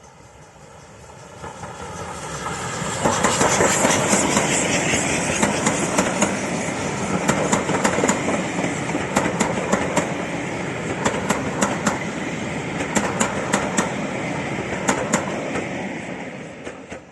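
Steam-hauled train passing close by at speed, its wheels clicking over the rail joints. It builds up over the first three seconds, holds loud, and cuts off abruptly near the end.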